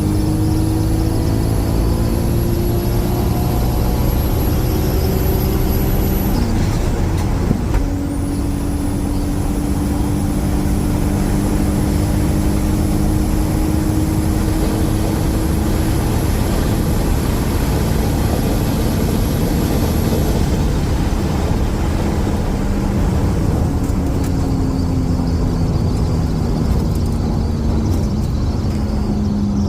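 R33 Skyline's turbocharged RB30DET engine under full throttle at high speed, its pitch climbing slowly. A brief break for a gear change comes about seven seconds in, then it climbs again. Over the last few seconds the pitch falls as it eases off. Heavy road and wind noise runs underneath throughout.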